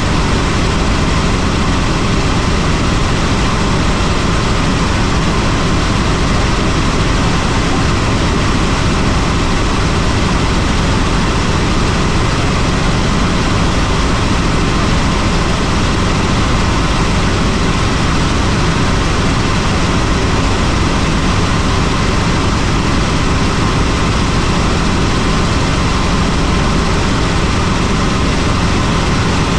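Helicopter's engine and rotor running, a loud, steady noise that does not change.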